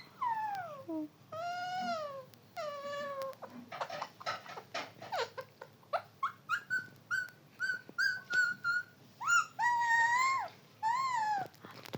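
Pet parrot calling: several drawn-out calls that fall or arch in pitch, then a quick run of short repeated notes, then more long arched calls.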